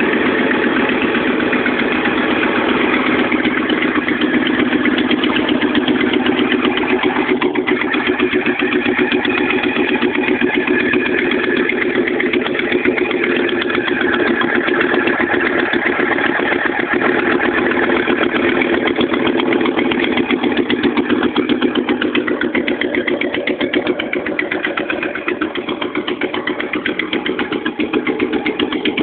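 Fiat Coupé 20V Turbo's turbocharged five-cylinder engine running steadily with a fast, even pulsing from the exhaust, which leaks through a broken exhaust manifold.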